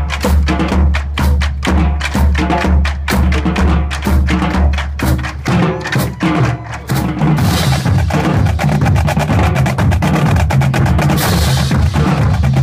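High school drumline playing. A quick run of sharp, evenly spaced clicks and drum strokes opens the passage. About seven seconds in, the full section comes in denser and lower, with two crashes.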